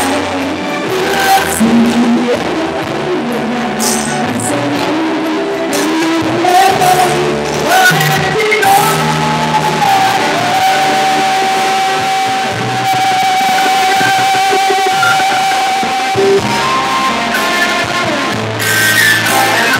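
Live band music in a rock style, with guitar and singing. About halfway through, a single long note with vibrato is held for several seconds.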